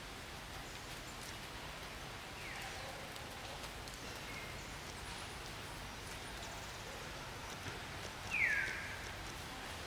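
Two short, high squeals from an animal, each falling in pitch: a faint one about two and a half seconds in and a louder one near the end. Both sit over steady background noise.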